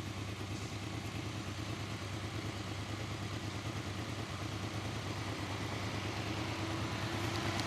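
Motorcycle engines ticking over steadily at idle.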